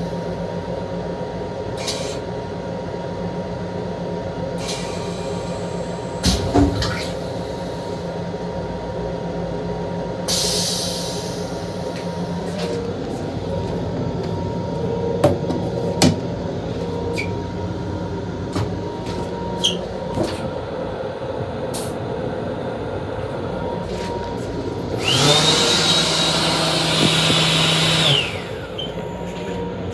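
Steady running hum of a Long Island Rail Road M7 electric railcar heard from inside its restroom, with scattered clicks and knocks of the plastic toilet seat and lid being handled. Near the end comes a loud rushing sound with a high whine for about three seconds.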